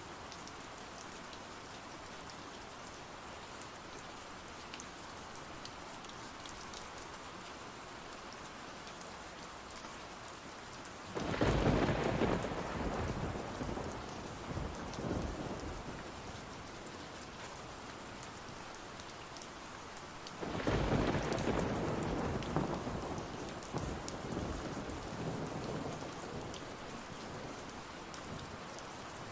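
Steady rain with two rolls of thunder, the first about eleven seconds in and the second about twenty seconds in, each breaking suddenly and dying away over several seconds.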